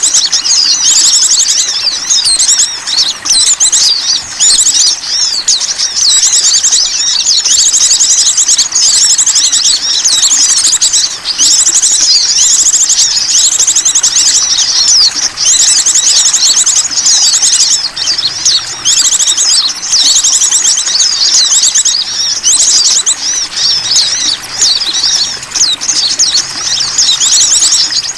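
Dense, high-pitched chorus of small songbirds chirping and trilling without pause, fast rattling trills overlapping with sharp chirps: a bird-lure (pikat) recording made to draw in wild small birds.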